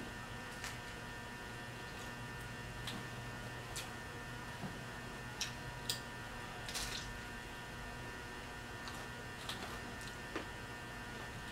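Pizza being bitten and chewed, heard as scattered soft mouth clicks and a few brief crunchy bursts over a steady electrical hum.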